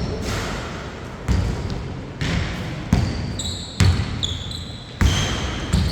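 A basketball bouncing on a court about once a second, seven bounces in all, with short high sneaker squeaks between the bounces.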